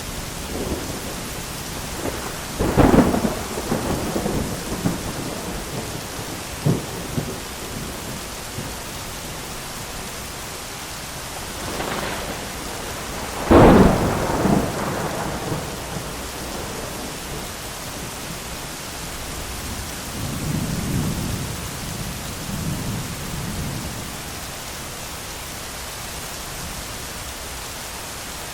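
Thunderstorm: steady heavy rain with thunder. Sharp thunderclaps come about 3 seconds in and about 13 seconds in, the second the loudest, each followed by rolling rumble. A softer distant rumble follows later over the rain.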